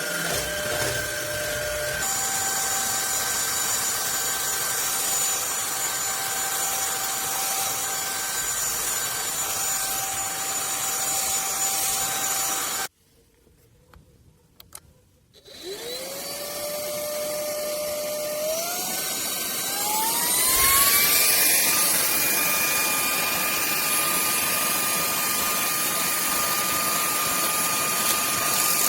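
Fieety cordless stick vacuum running with a steady high whine, then switched off abruptly about halfway through. After a couple of seconds of quiet with a click or two, it is switched back on and its whine rises in pitch as the motor spins up, settling louder and higher than before.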